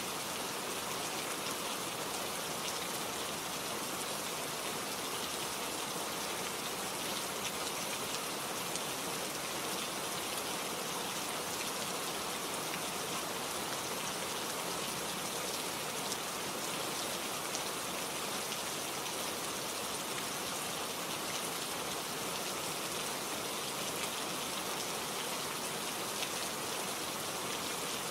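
Steady rain falling, a dense, even patter of drops that neither builds nor fades.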